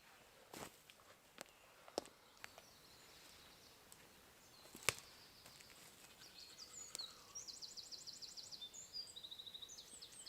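Faint woodland birdsong: from about six seconds in, a small bird sings fast trills of high repeated notes. Earlier, a few sharp clicks sound, the loudest about five seconds in.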